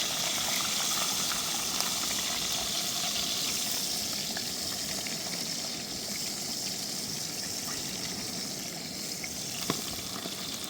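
Steady rush of flowing river water, easing off slightly, with one sharp click near the end.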